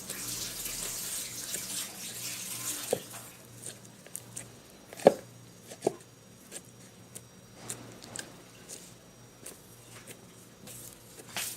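Tap water running into a sink for about three seconds, then shut off, followed by scattered small clicks and knocks.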